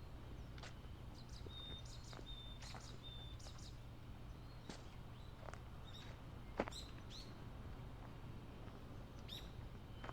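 Small birds calling in scattered short chirps, with a few brief higher notes early on, over a low steady rumble; a single sharp knock about six and a half seconds in.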